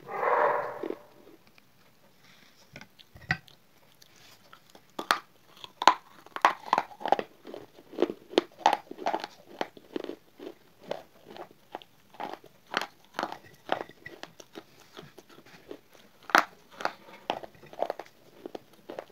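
Close-up crunching and chewing of hard baked clay pieces: a dense run of sharp, crackling crunches, loudest in the first second.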